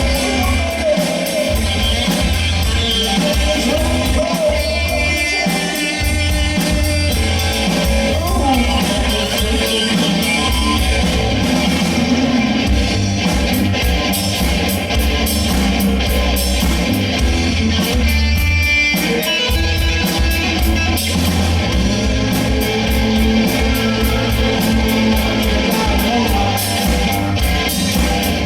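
A rock band playing live: drums, bass, electric guitar and a singer.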